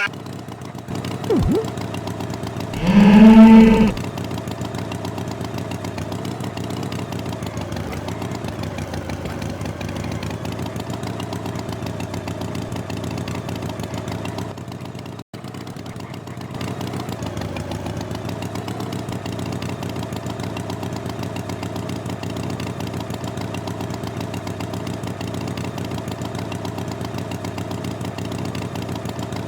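A cow moos once, loudly, a few seconds in. Then an engine idles steadily, with a very brief break about halfway through.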